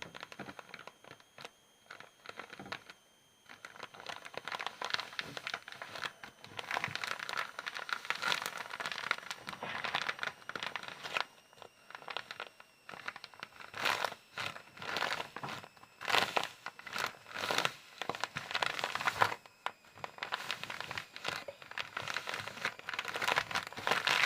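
Crinkly material being crumpled and rustled by hand in irregular bursts, a crackling, crinkling sound made on purpose as a 'satisfying noise'.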